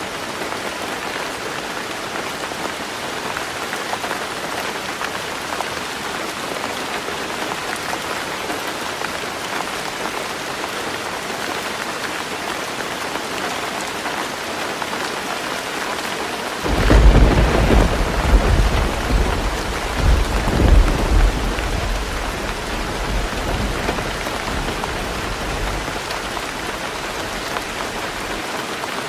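Heavy rain drumming steadily on a roof. About two-thirds of the way through, a loud roll of thunder breaks in suddenly, rumbles in a few swells and dies away over several seconds.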